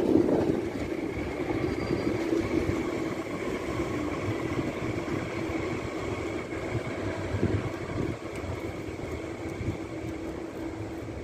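Trenitalia Frecciarossa high-speed electric train moving slowly through the station, its running gear and electrical equipment giving a steady hum that grows gradually quieter.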